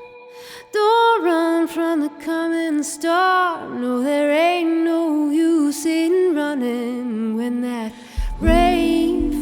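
Music: a woman singing a slow melody, with a deep bass entering about eight seconds in.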